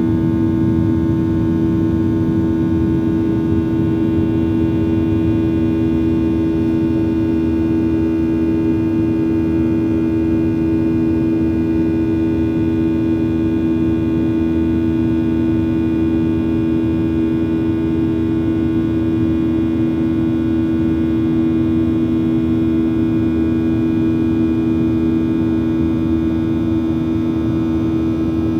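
A loud, steady machine hum: several constant tones over a low rumble, unchanging in pitch or level.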